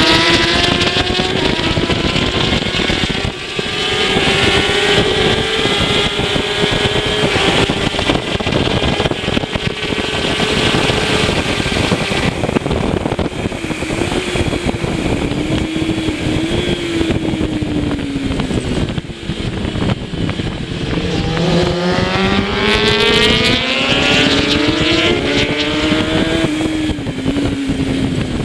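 Kawasaki ZX-10R superbike's inline-four engine at racing speed, held high and wavering, then dropping sharply in pitch about two-thirds in as the bike slows and climbing again under acceleration, over constant wind rush.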